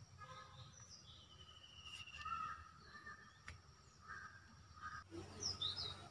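Faint birds chirping in the background: scattered short chirps, one longer whistle that falls gently in pitch early on, and quick high calls about five seconds in, with a couple of soft clicks.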